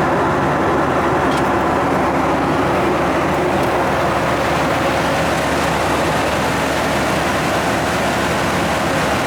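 Steady, loud vehicle noise with a constant low hum.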